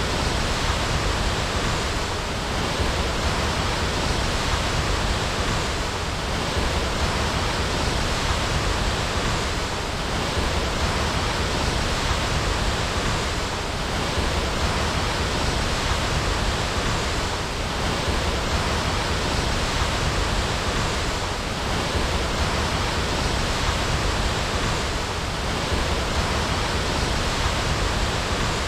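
Waterfall: water falling in a dense, steady rush that does not change.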